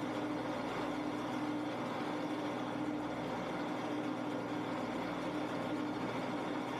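Shopsmith woodworking machine running as a lathe: a steady motor hum with a constant tone, unchanging throughout.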